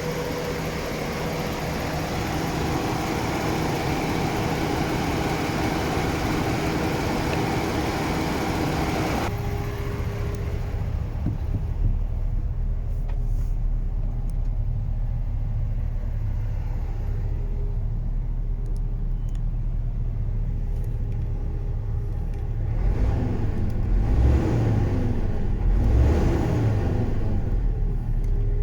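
MAN TGS 18.400 truck's diesel engine running. For the first third the sound is mixed with a loud hiss; it then changes abruptly to a steady low idle rumble. Near the end the engine is revved up twice.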